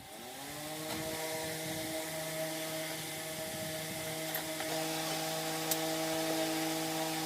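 A power tool's motor spinning up over about a second, then running at a steady speed with an even whine.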